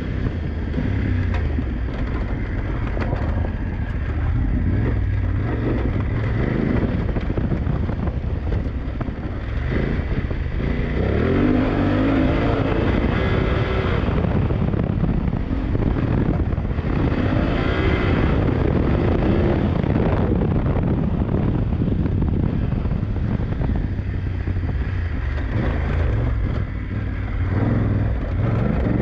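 BMW F900GS parallel-twin engine ridden hard off-road, revs climbing and dropping repeatedly as the throttle opens and closes, with wind buffeting the onboard microphone.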